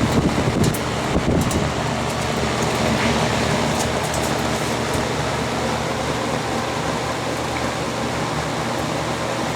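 Vintage all-metal Kmart box fan running on high speed: a steady rush of air over a low motor hum, with a few faint clicks in the first few seconds.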